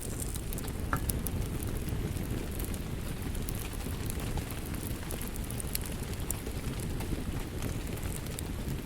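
Wood fire in a fireplace crackling: scattered sharp snaps and pops over a steady low rumble.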